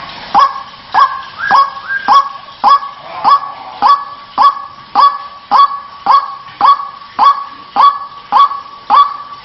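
White-breasted waterhen (ruak-ruak) calling: a harsh "kruak" repeated steadily, nearly twice a second.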